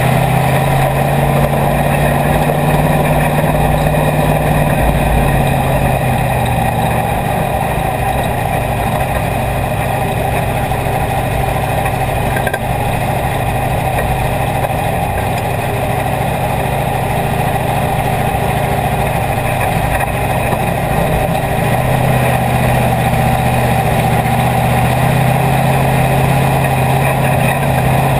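IMCA Hobby Stock race car's V8 engine heard from inside the cockpit, running steadily at low idle while the car rolls slowly. Its note drops slightly about six seconds in and rises again about twenty-two seconds in.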